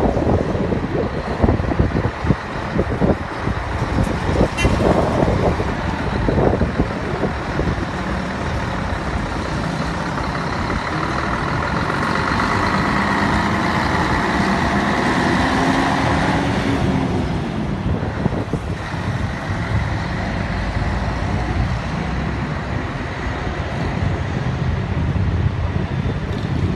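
Scania 113 bus's 11-litre six-cylinder diesel engine running, its note rising and then falling around the middle. There are irregular low thumps in the first few seconds.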